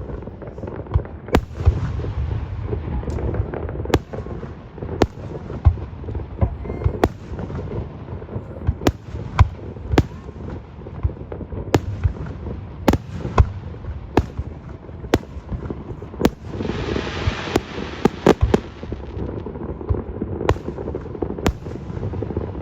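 Aerial fireworks exploding: a continuous run of sharp bangs at irregular intervals over a low rumble of distant booms, with a burst of hissing crackle about two-thirds of the way through.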